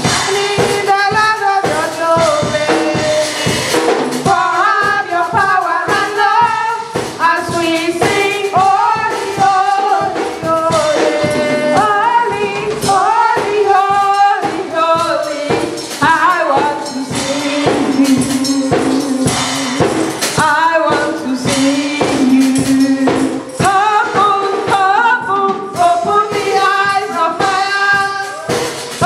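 Gospel choir singing a worship song, with a tambourine shaken in rhythm throughout.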